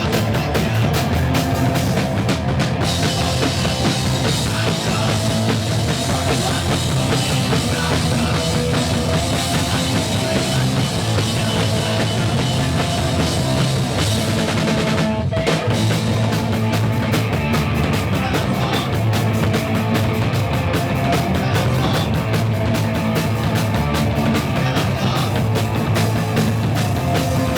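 Punk rock band playing live and loud, with a drum kit pounding under the guitars. There is a split-second break about halfway through.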